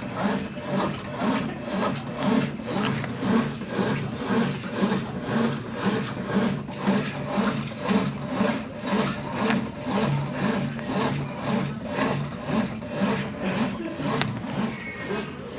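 Consul Facilite 10 kg washing machine running on its original factory mechanism, the drum churning back and forth with a rhythmic rubbing, swishing sound, about two strokes a second.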